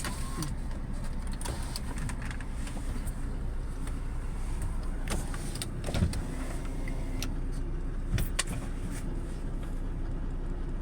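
Car engine running steadily, a low hum heard from inside the cabin, with a few sharp clicks and knocks, the loudest about six and eight seconds in.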